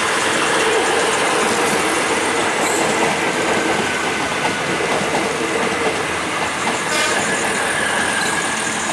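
Green multiple-unit passenger train passing close by, its wheels rumbling and clattering over the rail joints. A faint high wheel squeal comes in over the later seconds, and a single sharp click sounds about seven seconds in.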